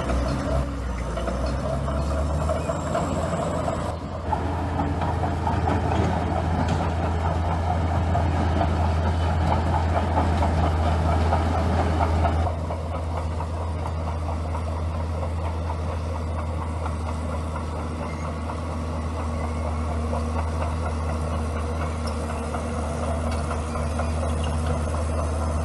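Bulldozer diesel engine running with a steady low drone. It works louder for several seconds, then eases back sharply about halfway through and runs on more quietly.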